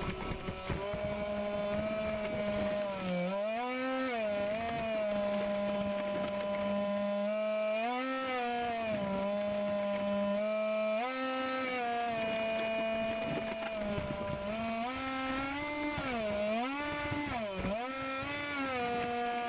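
RC air boat's motor and air propeller running, a steady hum whose pitch rises and falls several times as the throttle changes.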